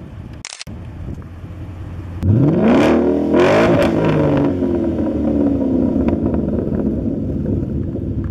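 2014 Mustang GT's 5.0 V8 through a Roush axle-back exhaust, revving hard: the exhaust note jumps in loudness about two seconds in and climbs steeply in pitch, then eases back down.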